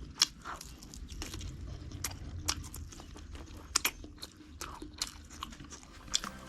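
Close-miked chewing and biting of crunchy food: irregular sharp crunches, a few louder bites among softer chewing.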